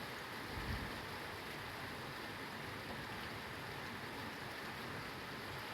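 Steady rain falling, an even hiss with no let-up. A brief low bump comes less than a second in.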